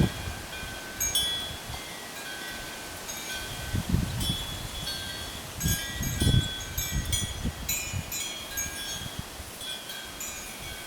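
Wind chimes ringing on and off, several clear tones sounding and overlapping, with a few low thumps about four and six seconds in.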